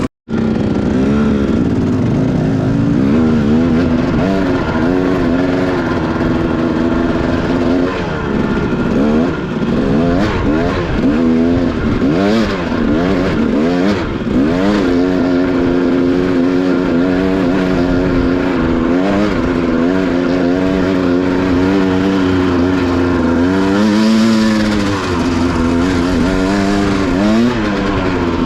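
Dirt bike engine being ridden on a trail, the revs rising and falling over and over as the throttle is worked, with a few stretches held at steady speed.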